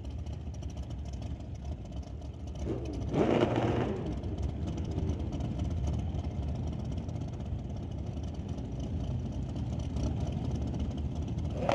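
Drag-racing motorcycle engines running with a steady low rumble, with one brief louder rev about three seconds in.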